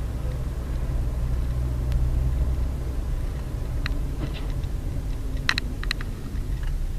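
Steady low drone of a car's engine and road noise as heard by a dashcam inside a moving car, with a few sharp clicks or knocks a little past halfway.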